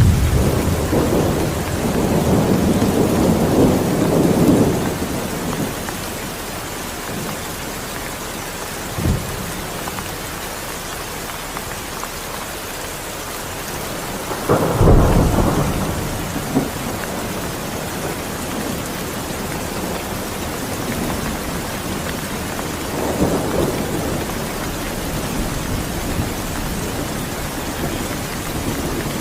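Steady rain falling, with thunder rumbling several times: a long rumble at the start, a short crack about nine seconds in, a louder peal about halfway, and fainter rumbles later and near the end.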